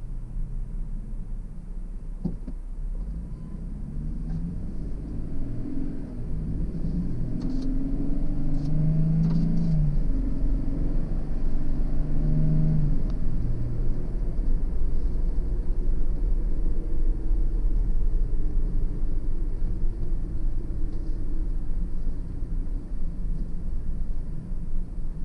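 Car driving on the road: a steady low rumble of engine and road noise, with the engine note climbing in pitch and getting louder for several seconds as the car picks up speed, then settling into a steady cruise.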